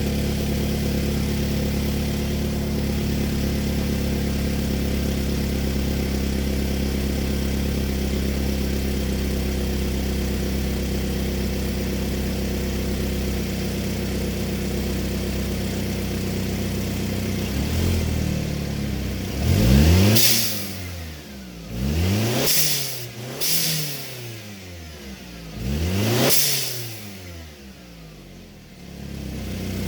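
Turbocharged 2012 Mercedes-Benz C250 engine, fitted with a catless downpipe and turbo muffler delete, idling steadily, then revved four times in quick blips that rise and fall in pitch before it settles back to idle near the end. Each blip carries a short high hiss from the aftermarket diverter blow-off valve venting.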